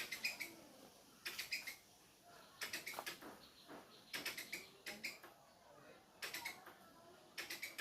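Squirrel calling: short bursts of rapid, high-pitched chirps, about six bursts repeating roughly every second and a half.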